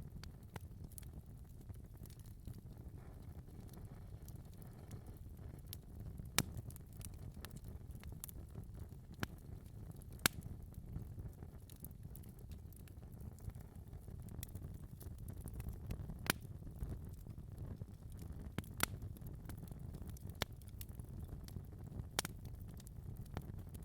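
Fireplace fire crackling steadily over a low rumble of the flames, with five sharp, louder pops spread out among the small crackles.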